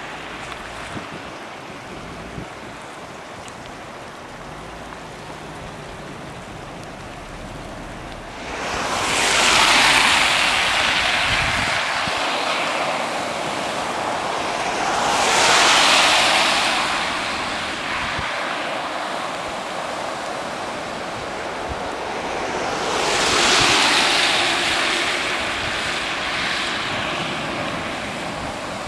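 Cars driving through deep water on a flooded street, each pass a swelling rush of spray and splashing from the tyres. Three cars go through: about a third of the way in, near the middle, and toward the end, over a steady hiss of water.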